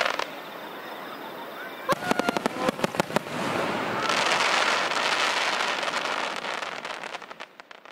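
Aerial fireworks shells bursting: a quick string of sharp bangs and crackles about two seconds in, then a long dense crackling hiss from a big burst that fades away near the end.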